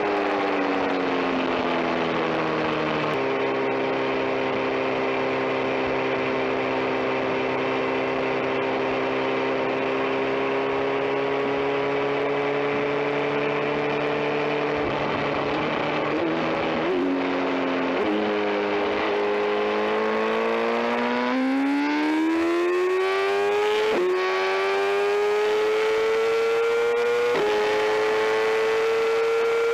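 2022 BMW S1000RR's inline-four engine heard through its on-bike camera while riding. The note falls and settles steady, wavers, then climbs under acceleration, with two sudden pitch drops near the end like upshifts.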